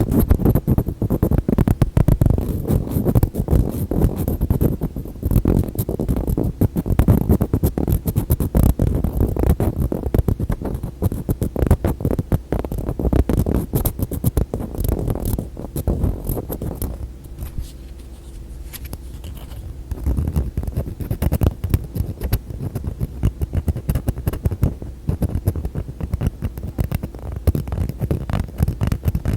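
Rapid fingertip and fingernail tapping and scratching on containers and lids, close-miked, with a dense run of quick knocks. There is a softer, quieter stretch a little past halfway before the fast tapping resumes.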